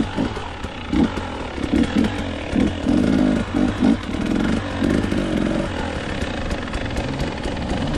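Dirt bike engine under repeated short bursts of throttle, its pitch surging up and dropping back about once or twice a second, steadier in the second half, with scattered sharp clicks and clatter.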